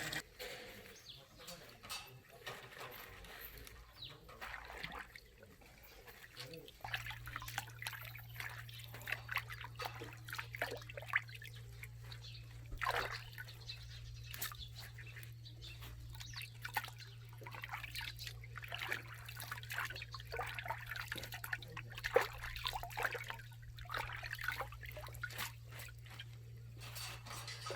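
Water trickling and splashing in irregular small plops and drips. A faint steady low hum comes in about seven seconds in.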